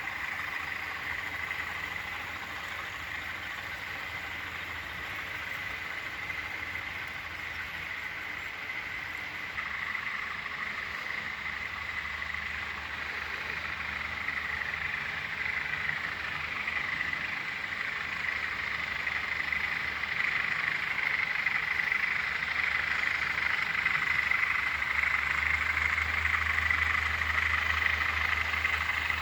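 Class 20 diesel locomotives' English Electric eight-cylinder engines running, a low rumble that grows louder near the end, under a steady raspy high whine.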